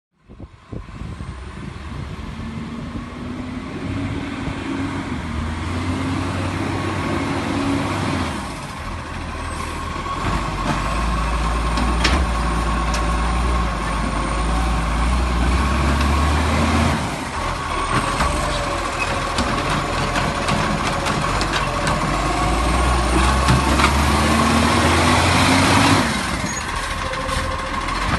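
Garbage truck engine running and revving up three times, with a steady high whine throughout and a few sharp clicks in between.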